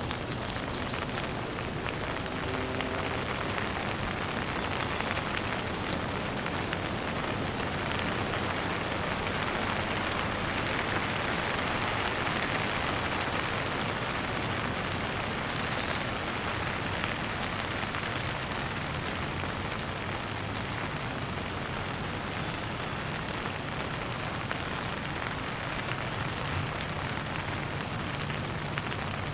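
Steady gentle rain falling and pattering on surfaces. A brief high bird chirp comes about halfway through.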